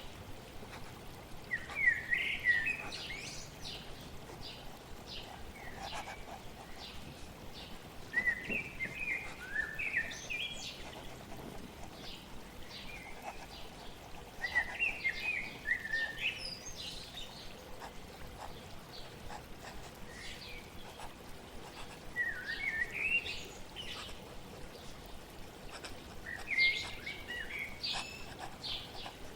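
A songbird repeats a short phrase of quick chirping notes five times, about every six seconds, over a steady hiss of flowing water.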